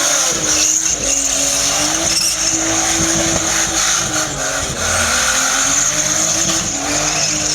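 Car engine held at high revs, its pitch rising and falling, with tyres squealing on the road surface.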